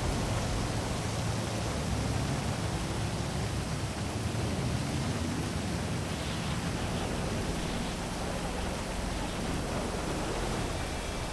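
Heavy rain falling as a steady, even hiss, with a low hum of city traffic underneath that slowly rises and falls in pitch.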